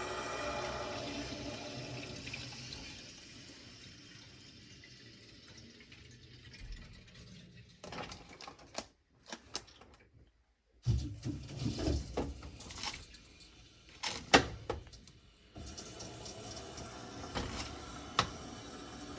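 Water rushing through pipework, fading away over the first few seconds; later a run of clicks and knocks, then a steady flow of water again near the end.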